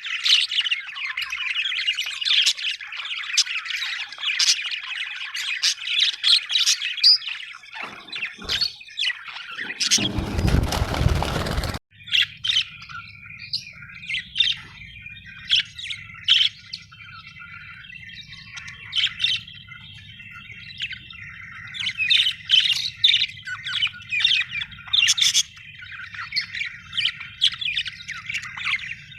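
Budgerigars chirping and warbling together in a dense, continuous chatter of quick chirps and squawks. About ten seconds in, a loud rushing noise covers them for roughly two seconds and cuts off abruptly, after which a steady low hum lies under the chirping.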